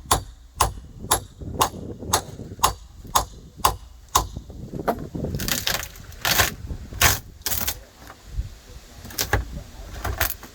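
Sharp metallic hammer blows on a steel bar, about two a second, chipping at the transom wood. They pause for some rougher scraping and tearing noises, then a few more blows come near the end.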